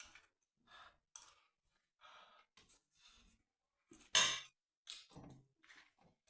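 Close mouth sounds of a person eating: short soft chewing and smacking noises, with one loud breathy exhale, like a sigh, about four seconds in.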